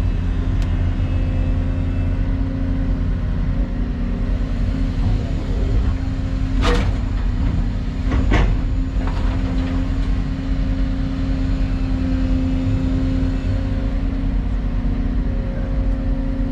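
Excavator diesel engine running steadily under load. About halfway through come two sharp knocks, a second and a half apart.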